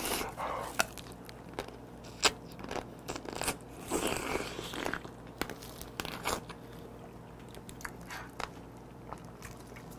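Close-up eating sounds of raw soy-marinated blue crab (ganjang-gejang): biting and chewing with irregular sharp crunches of crab shell and soft sucking at the meat.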